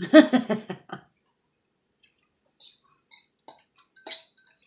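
A brief bit of voice, then faint, scattered small clicks and light clinks, typical of eating with a utensil from a bowl and chewing.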